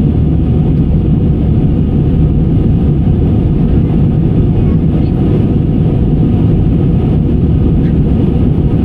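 Steady low rumble of an airliner's engines and airflow heard inside the passenger cabin in flight, loud and even throughout.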